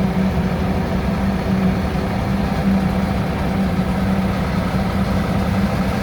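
Silage-hauling truck's engine running steadily at an even speed, a constant low hum that neither rises nor falls.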